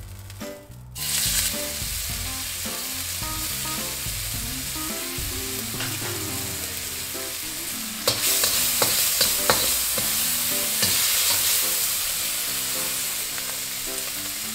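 Pieces of smoked beef bacon hit a hot wok and start sizzling about a second in; from about eight seconds the sizzle gets louder, with clicks and scrapes of the metal ladle stirring them against the wok. Background music plays underneath.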